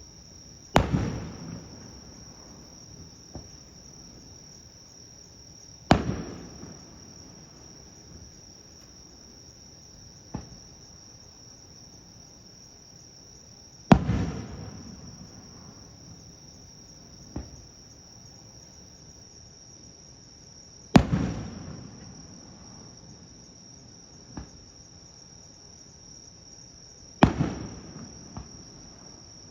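Aerial firework shells bursting one at a time, five loud bangs about six to seven seconds apart, each trailing off in a rolling echo, with a fainter single pop between most of them. A steady high-pitched drone of insects runs underneath.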